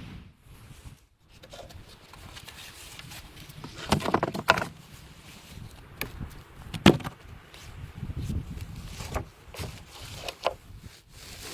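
Scattered sharp knocks and clatter of wood being handled and worked, over low rustling and shuffling.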